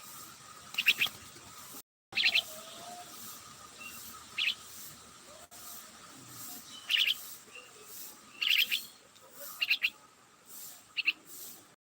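Small birds chirping, short clusters of quick high chirps every second or two. The sound cuts out completely for a moment about two seconds in.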